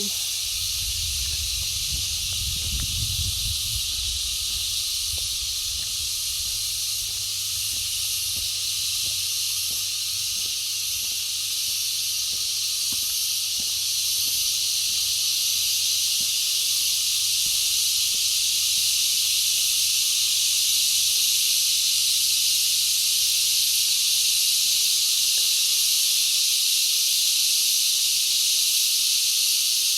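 Insects, cicadas by the sound of it, in a steady high-pitched chorus that grows a little louder about halfway through. A brief low rumble of wind or handling on the microphone comes in the first few seconds.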